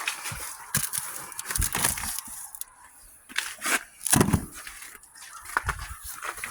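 Cardboard packages being handled: irregular knocks, scrapes and crinkles, with the loudest thump about four seconds in.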